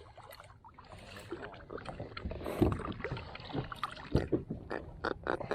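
Irregular knocks, clicks and water noise of handling aboard a kayak, sparse at first and growing busier about two seconds in.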